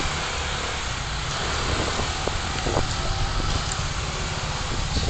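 A scooter being ridden: a steady low rumble of engine and road noise with no sharp events.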